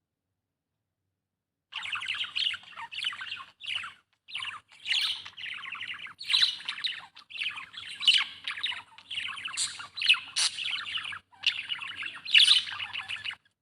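Budgerigar chirping and warbling in fast, chattering phrases broken by short pauses, starting about two seconds in.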